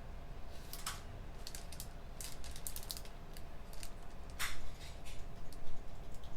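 Computer keyboard keys being typed in short, irregular clicks, a few bunched together and one louder keystroke after about four seconds, over a steady low hum of room machinery.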